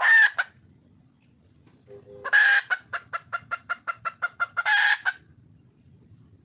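Red junglefowl hen calling for a mate. There is a sharp call at the start, then about two seconds in a long call that runs into a quick string of short clucks, about six a second, ending on another long note.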